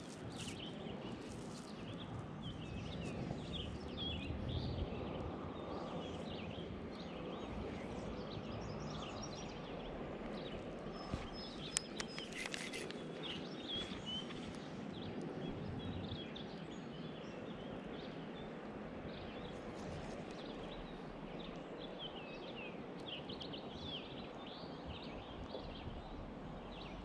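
Songbirds chirping in many short calls over a steady background hiss of moving water and air, with a sharp click about twelve seconds in.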